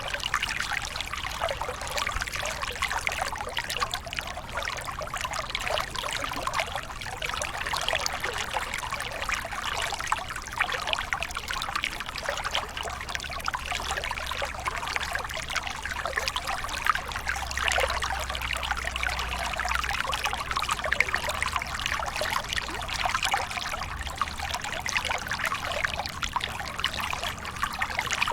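Small waterfall pouring and splashing steadily, with a continuous trickling, splattering hiss and a faint low rumble underneath.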